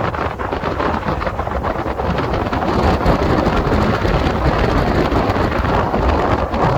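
Wind buffeting the microphone: a loud, steady rushing noise with a deep rumble.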